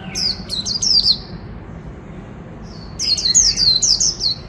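Black-throated laughingthrush singing: two phrases of quick, falling whistled notes, the first at the start lasting about a second, the second beginning about three seconds in and lasting about a second and a half.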